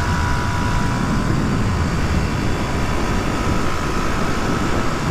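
Suzuki DR250S single-cylinder four-stroke engine running at a steady cruise under heavy wind rush, with a thin steady whine.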